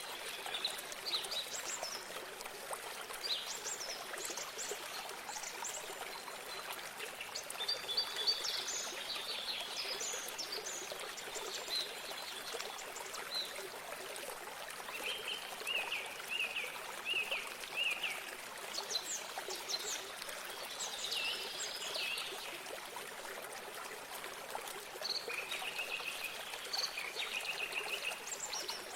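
Small stream of water trickling steadily, with songbirds chirping and singing over it in short phrases, including a run of about five quick repeated notes midway.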